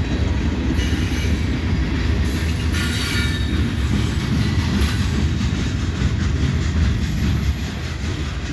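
Freight train cars rolling past at close range: a steady, loud rumble of steel wheels on rail.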